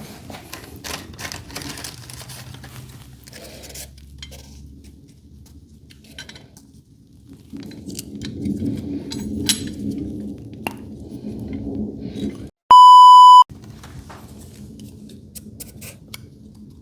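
Clinks, taps and rattling of metal garage-door hinge hardware being handled and fitted. About three quarters of the way through, the sound drops out and a loud, steady bleep tone lasting under a second is edited in, the kind used to censor a swear word.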